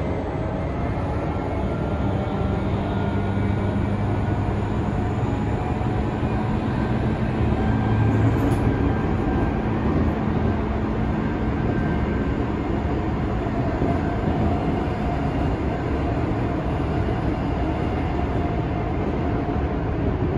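Tokyu 5000 series electric commuter train heard from inside a passenger car running at speed: a steady rumble of wheels on rail with a low steady hum, swelling slightly about eight seconds in.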